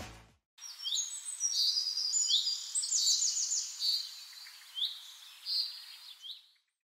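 Birds chirping: many quick, high calls and short sliding notes overlapping, stopping abruptly near the end.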